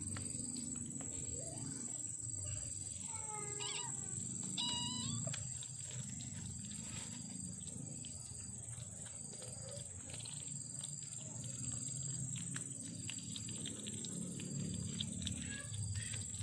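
Kitten growling low and continuously over its food, an angry warning at being disturbed while eating. Two short high-pitched cries come about four and five seconds in.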